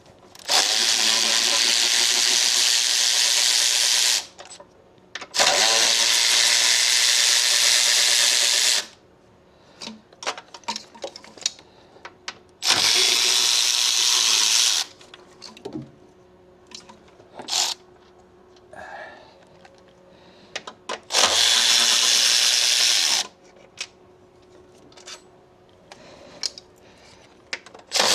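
A handheld power ratchet running in four bursts of two to four seconds each, spinning off the 10 mm nuts that hold the intake manifold. Small clicks and taps of tools and loosened parts fall between the bursts.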